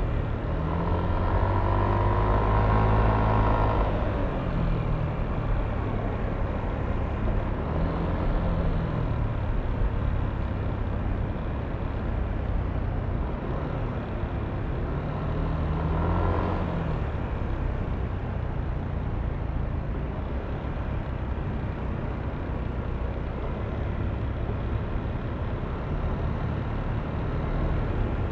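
Yamaha Aerox V3 scooter's single-cylinder 155 cc engine running under way in traffic, over steady road and wind noise. Its pitch swells and falls about a second in and again just past halfway.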